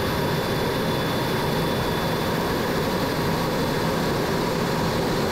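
Steady rushing cockpit noise of a MiG-17 jet fighter in flight on its landing approach: the turbojet engine and airflow, even and unchanging.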